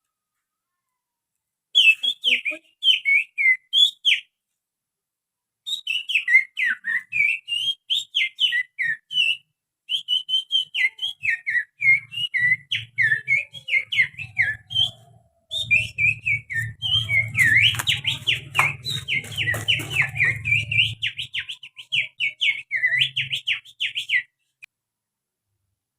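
A man whistling through his little finger in imitation of an oriental magpie-robin's song: rapid, chirpy high notes that slide up and down, in four runs with short pauses between them. A low hum sits underneath through the middle stretch.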